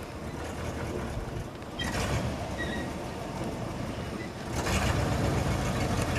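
Classic car engines running as the cars move off at low speed; a mid-1950s Chevrolet pickup's engine grows louder about four and a half seconds in as the truck drives up close.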